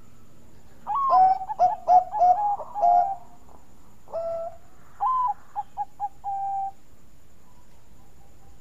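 Zebra dove (Bangkok perkutut) cooing: about a second in, a phrase of several quick rolling coos, then a single coo, then a phrase of short staccato notes ending in a longer held coo.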